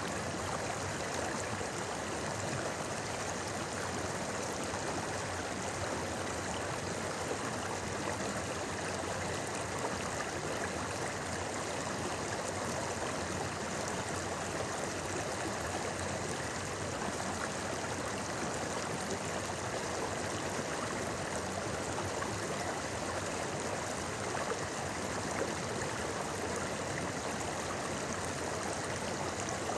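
Shallow river babbling over stones, a steady rushing and gurgling flow.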